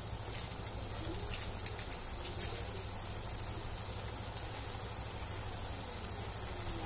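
Diced ham, corn and mushrooms sizzling in oil in a wok over a low steady hum, with a few short clicks of a metal spatula against the pan in the first two or three seconds.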